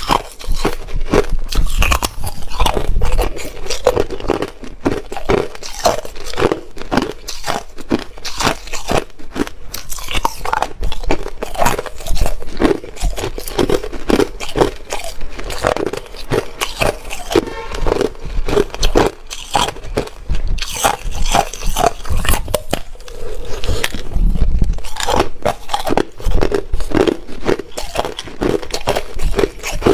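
Close-miked biting and chewing of hard ice: dense, irregular crunching and cracking, several crunches a second with short pauses.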